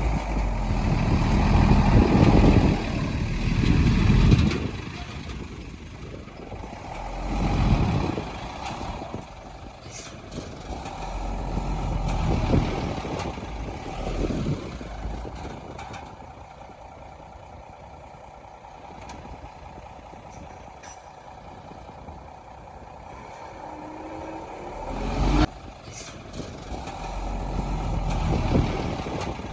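Diesel engines of heavy earthmoving machinery working, swelling loudly again and again as they take load and then easing back to a lower drone. There is a sharp clank or hiss about 25 seconds in.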